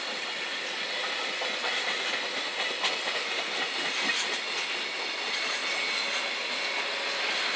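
Container freight train's flat wagons rolling past at speed: a steady rumble of wheels on rail, with a few sharp clacks about three and four seconds in as the wheels cross rail joints.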